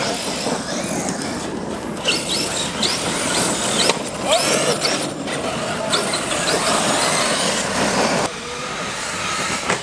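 Small radio-controlled truck driven fast over dirt, its electric motor whining up and down in pitch with the throttle over the scrabble of its tyres on the ground. The noise drops suddenly about eight seconds in.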